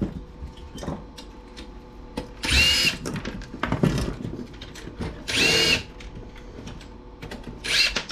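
Power drill-driver with a 5/16 nut-driver bit whirring in three short bursts of about half a second each, the pitch rising as each one spins up, backing out the fasteners that hold a small CRT TV together. Small clicks and handling of the parts come between the bursts.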